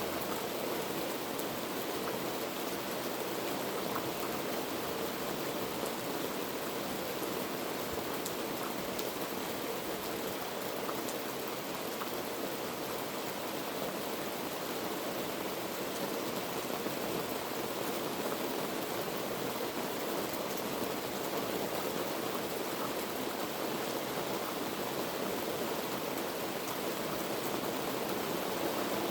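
Heavy rain falling steadily: an even hiss with faint scattered taps of single drops through it.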